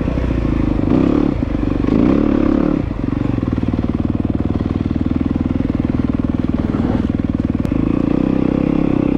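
Dirt bike engine running under way, the throttle opening and closing for the first three seconds, then holding a steady pace.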